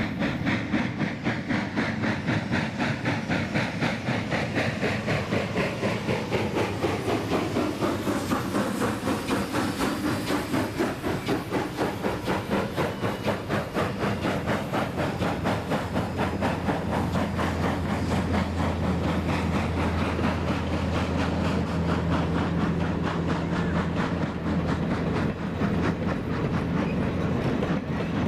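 Steam-hauled train running along the line, with a fast, even rhythm of beats. A steady low hum joins about two-thirds of the way through.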